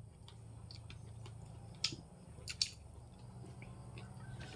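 Two people eating rice noodles with their fingers: soft chewing and mouth smacks, with a few sharp clicks, over a low steady hum.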